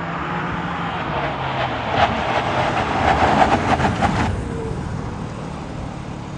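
BMW M4 Competition xDrive's twin-turbo straight-six engine running, with slowly gliding pitch at first. About two seconds in it turns louder and rougher with crackles, then cuts off suddenly a little after four seconds.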